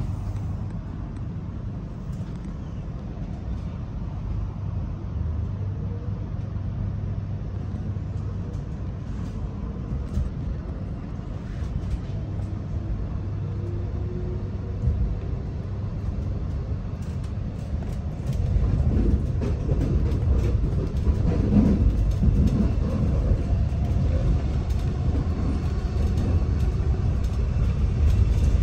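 Melbourne suburban electric train running, heard from inside the carriage: a steady low rumble with a faint rising whine a few seconds in, growing louder about two thirds of the way through as the train gathers speed.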